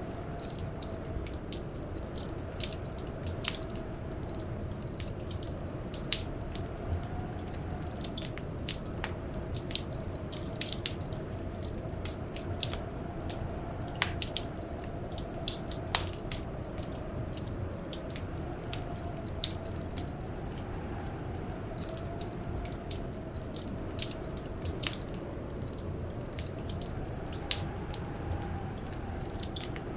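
Wood fire crackling, with many sharp pops at an irregular pace over a steady low rumble. Behind it, blizzard wind howls softly, its pitch slowly rising and falling.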